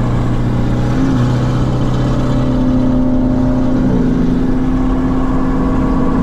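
Supercharged Chevy SS V8 engine droning steadily as the car drives, heard from inside the cabin. Its pitch shifts up slightly about a second in and drops a little near four seconds.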